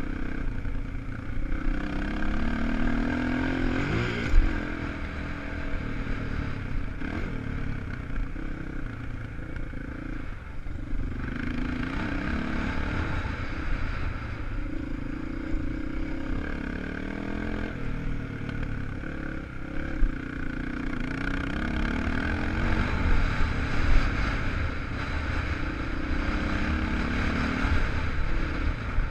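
250 cc enduro motorcycle engine revving up and easing off again and again as the bike rides a dirt track, under a steady low rumble. A few sharp knocks and clatters are heard along the way.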